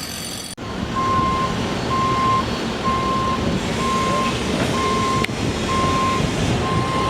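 A vehicle's reversing alarm beeping steadily, about one beep a second, over a low engine rumble. The beeps start just under a second in.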